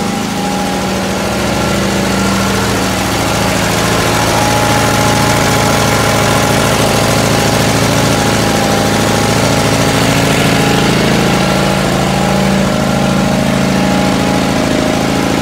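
Air compressor running steadily, loud enough to drown out speech, charging the air tanks that supply starting air for the large oil-field engines.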